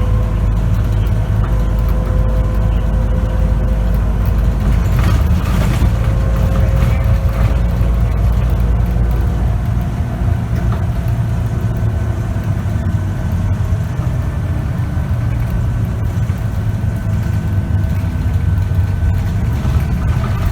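Scania K94UB bus's diesel engine and ZF automatic gearbox heard from inside the cabin while under way: a steady low drone with a gearbox whine over it. There is a brief hiss about five seconds in, and the low rumble eases about ten seconds in.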